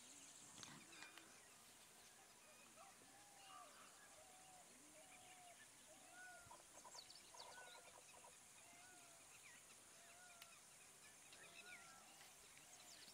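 Faint bird calls: short, arched whistled notes repeated about once a second, with higher chirps from another bird joining partway through.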